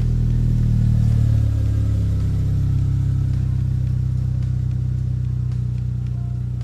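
Car engine idling steadily, slowly fading out.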